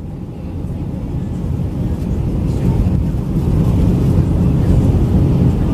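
Cabin noise aboard an Airbus A319-112 airliner: a steady, deep rumble of the CFM56 engines and airflow heard from inside the cabin, growing louder over a few seconds.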